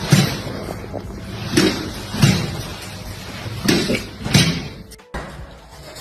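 Doors banging again and again: five heavy thuds in about four and a half seconds, then a sudden break near the end.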